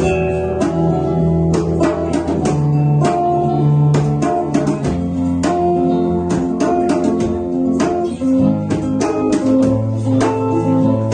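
Instrumental break in a live song: acoustic guitar playing with a djembe hand drum keeping the beat.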